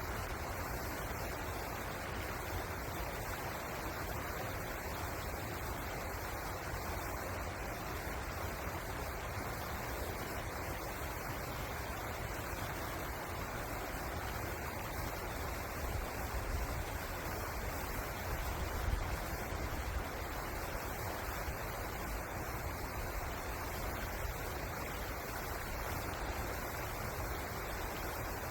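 Steady rushing of flowing river water, an even noise without pauses.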